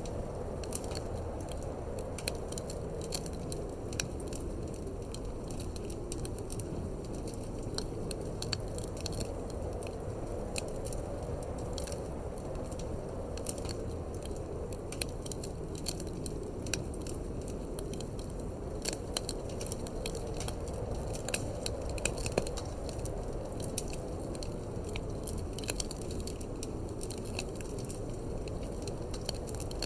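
Wood fire crackling in a fireplace, with frequent irregular pops and snaps over a steady low rush of wind.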